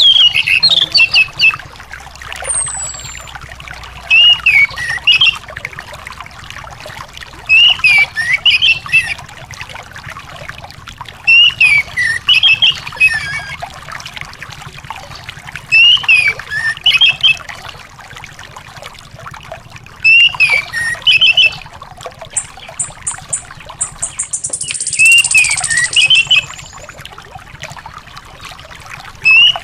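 An anis ground thrush singing short warbled phrases, one about every four seconds, over a steady trickling background. About three quarters of the way through there is a brief rapid rattle and a harsh hiss.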